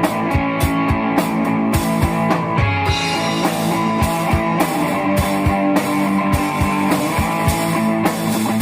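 Rock music: guitar over a steady drum beat.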